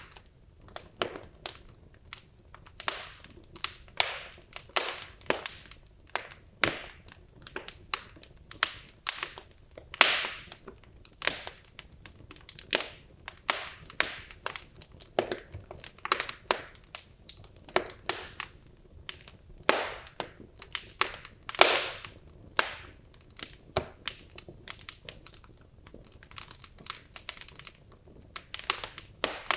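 Wood logs burning in a fireplace, crackling with irregular sharp pops and snaps over a faint hiss, a few louder pops among them.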